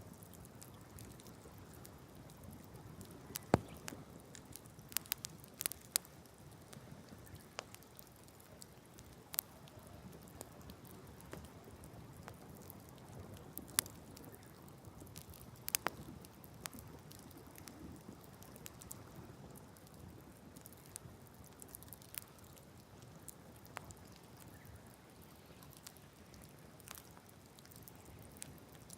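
Open wood campfire crackling: irregular sharp pops and snaps, a few of them loud, over a low steady hiss.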